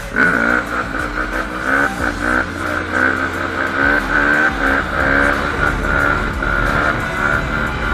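Small off-road engine revving, its pitch climbing and falling back several times as it accelerates through the gears.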